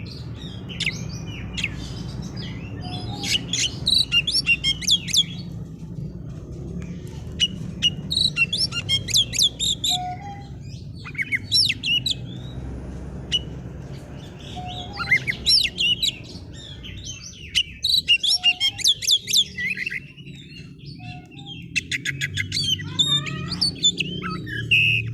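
Oriental magpie-robin (kacer) singing hard in bursts of rapid, varied high notes, a burst every few seconds, over a steady low hum.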